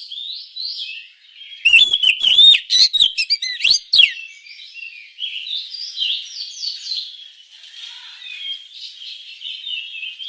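Oriental magpie-robin singing: a burst of loud, sharp, fast-gliding whistled notes from about two seconds in, then a softer, rambling warble for the rest.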